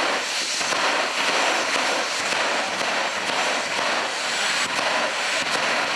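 Jet engine of a drag-racing jet vehicle running with a steady, even hiss-like roar.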